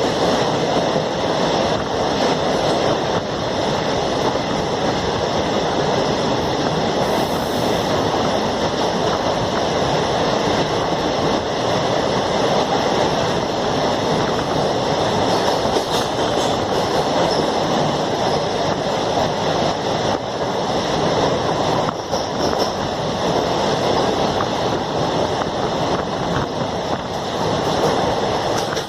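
Koyna Express passenger train running steadily: a continuous rush of wheel and rail noise, with no breaks.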